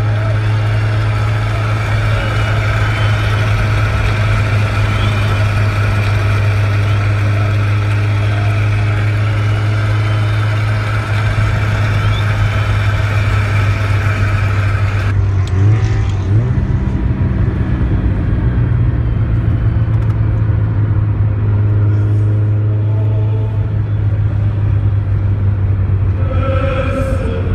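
Car engine droning steadily as heard from inside the cabin at speed, with road and wind hiss. The hiss cuts off suddenly about halfway through, and the engine note briefly shifts just after.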